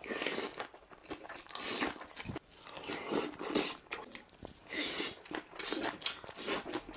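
Close-up chewing and biting of mouthfuls of bibimbap, wet mouth sounds coming in uneven bouts.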